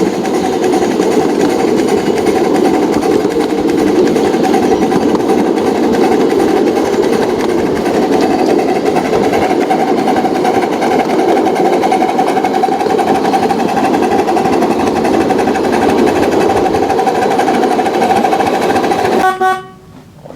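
Model train running on the track, a steady whine over rolling wheel noise. It cuts off suddenly near the end.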